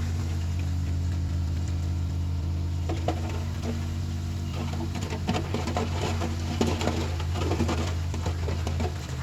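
Heavy machinery's diesel engine running steadily, with irregular clanking and rattling starting about three seconds in.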